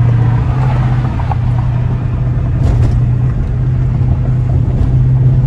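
Straight-piped Dodge Charger R/T's 5.7-litre Hemi V8 exhaust droning steadily while driving, easing slightly in the middle and growing louder again near the end.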